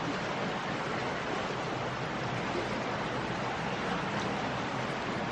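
Steady rushing of a fast-flowing mountain river running high, its water risen quickly and carrying leaves and debris.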